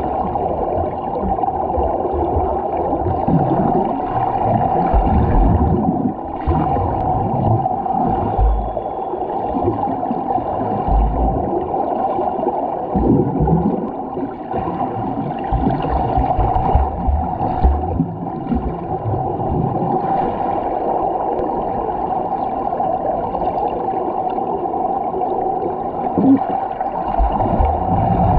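Swimming in a pool heard through a GoPro, partly underwater: muffled, steady churning and gurgling of water from strokes and kicks, with irregular low thumps.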